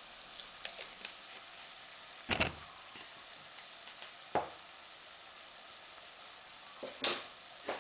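Crab curry sizzling in a nonstick pot with a steady hiss, broken by a few sharp knocks and clicks from the pot and utensils: a loud one about two seconds in, another a couple of seconds later, and two more near the end.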